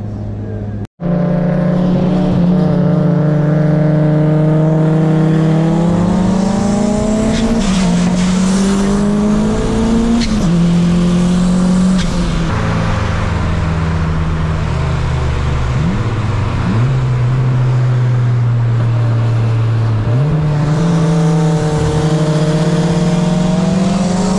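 Turbocharged Honda Civic Si engine pulling hard through the gears. Its pitch climbs, then falls back at each shift, several times over. The sound cuts out for an instant about a second in.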